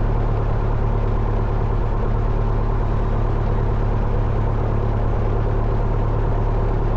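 1972 Cessna Skyhawk's four-cylinder Lycoming engine idling on the ground, heard from inside the cabin as a steady, even low hum.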